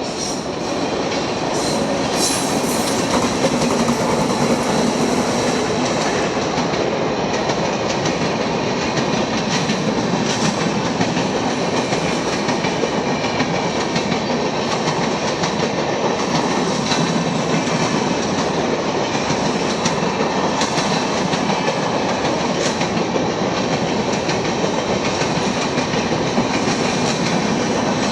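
Express train passing close at speed, its coaches clattering steadily over the rail joints with a loud rushing rattle. The sound builds in the first couple of seconds as the train arrives, then holds steady.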